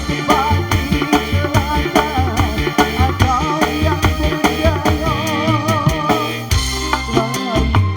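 Live dangdut band playing an instrumental passage: a steady drum beat with bass under a wavering, vibrato melody line. About six and a half seconds in, the beat thins out and a held chord comes in.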